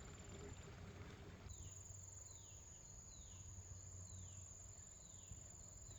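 Faint outdoor insect chorus: a steady high-pitched buzz, joined about a second and a half in by a short falling chirp repeated roughly once a second.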